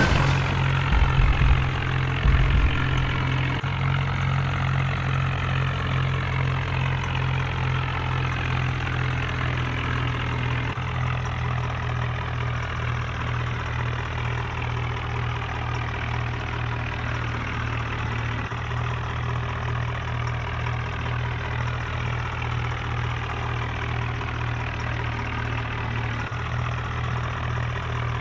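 Tractor engine running steadily at a low, even speed, with a few low bumps in the first few seconds.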